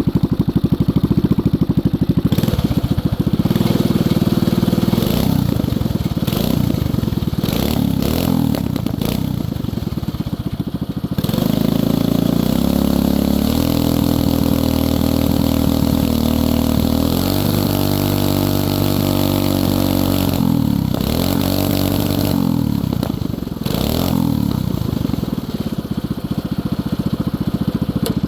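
Axis M200 minibike's 196cc single-cylinder engine running and being revved, its pitch rising and falling, with several abrupt breaks in the first ten seconds.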